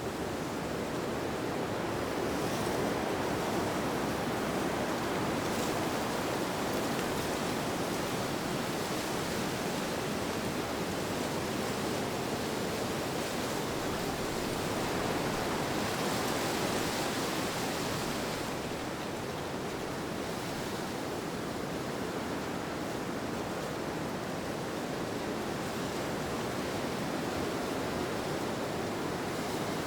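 Steady rushing wind, rising a little just past the middle of the stretch and then easing slightly.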